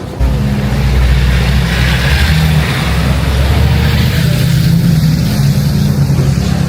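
A motor engine starts sounding loud and close about a moment in and keeps running steadily, with a low pulsing tone and a hiss above it.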